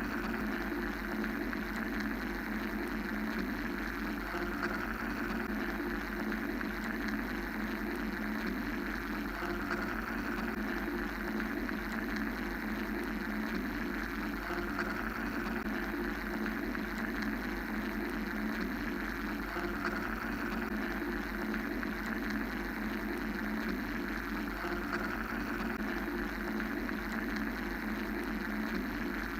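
Steady mechanical white noise: a low machine hum under a hiss that slowly swells and eases every several seconds, without pause.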